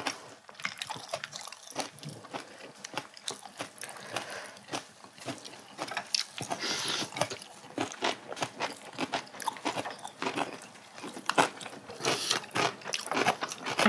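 Close-miked eating sounds: irregular biting, crunching and wet chewing, a dense run of small clicks and crackles.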